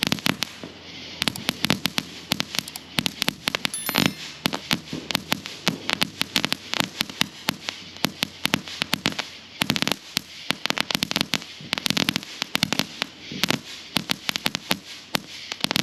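Noisy Boys firecrackers going off: a rapid, irregular string of sharp bangs, several a second, with no let-up.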